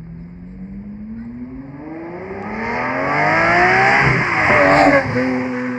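High-performance car engine accelerating hard, its pitch climbing steadily and growing louder for about four seconds. Its pitch then drops sharply as the car goes past, and it carries on at a lower, steady note as it pulls away.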